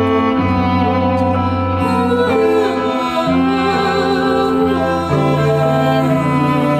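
Instrumental music on bowed strings: long held low notes that step to a new pitch every second or two, with a higher line sounding above them with vibrato.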